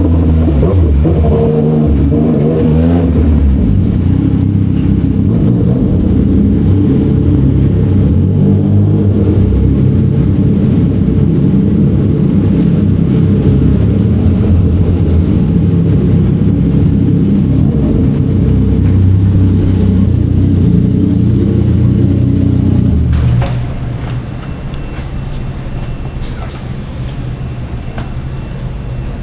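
Yamaha XSR900's inline-three engine through an SC Project exhaust, running under way with its pitch rising and falling in the first few seconds, then holding a steady loud note. About 23 seconds in it drops to a much quieter, steady low note, like the bike settling to idle.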